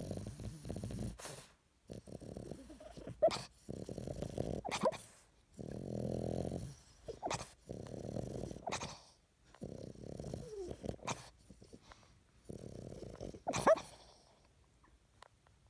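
A puppy making repeated low growls of about a second each, with short, high squeaky whines between them.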